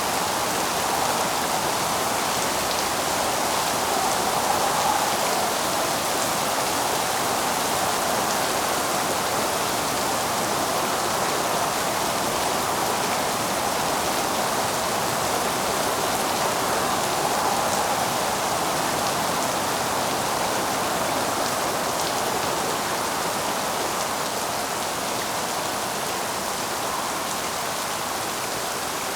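Steady rain falling, a dense even hiss with faint scattered drop ticks, easing slightly near the end.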